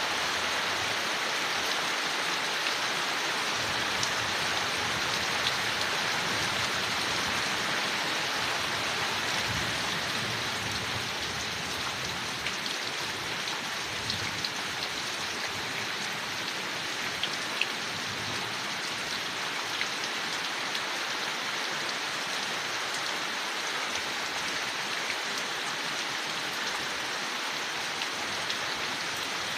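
Steady rain falling on leaves, an even hiss with scattered louder drops.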